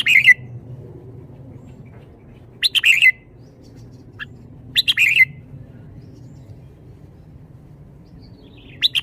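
Red-whiskered bulbul singing short, loud, bubbling phrases about every two seconds, with a single brief note between two of them. This is the song style that keepers call 'bottle-shaking'.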